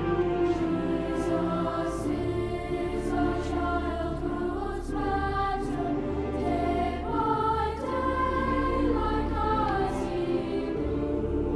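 Choir singing sustained, slow-moving chords over a low held bass, with orchestral strings.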